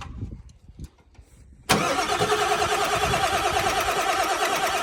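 A 7.3 Powerstroke diesel being cranked over by its starter motor, starting suddenly a little under two seconds in and going on steadily with an even rhythmic pulse. The high-pressure oil pump is not yet primed, so the engine turns over without catching.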